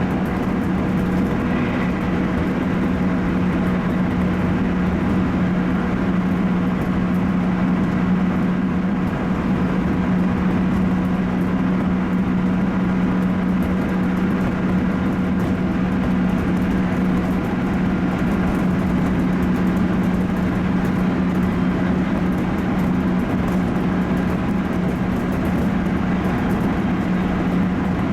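211 series electric train running at a steady speed, heard from the cab end: a constant running hum with a steady low tone over rolling noise.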